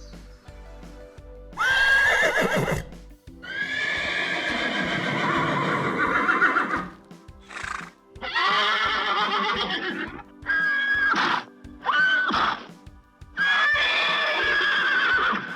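Horse whinnying repeatedly, about six calls. Each is a high, quavering neigh, and the first ends in a falling glide; one long call runs about three seconds.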